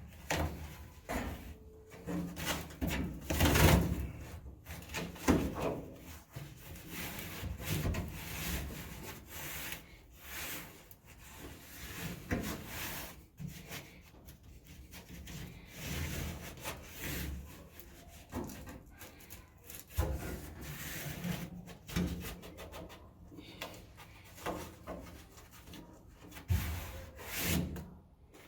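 Irregular rubbing, scraping and handling noise with scattered light knocks, from hands-on work fitting parts in an old truck cab.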